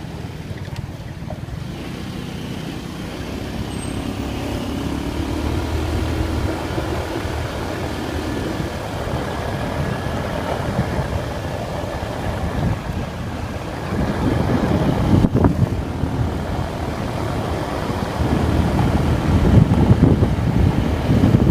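Vento Terra motorcycle engine running while being ridden, its pitch rising as it speeds up a few seconds in. Gusty wind on the microphone gets louder in the second half.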